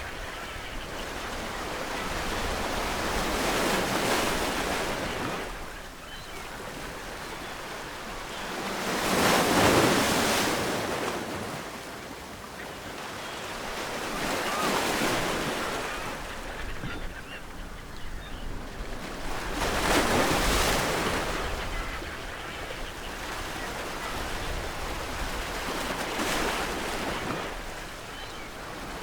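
Ocean waves breaking on a shore, each surge of surf rising and washing away in turn, about every five to six seconds.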